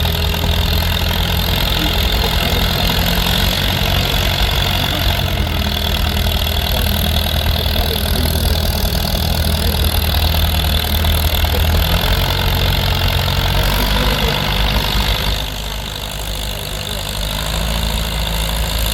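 Antique McCormick Farmall tractor engine running steadily under load while pulling a sled. Its low note shifts about twelve seconds in, and the sound drops off about fifteen seconds in before building again.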